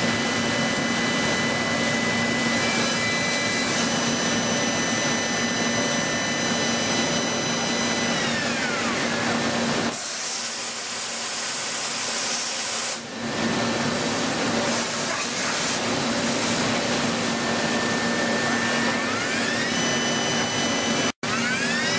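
CNC machine tool running, with a steady whine whose tones slide down in pitch twice as the spindle slows. A loud hiss lasts about three seconds in the middle.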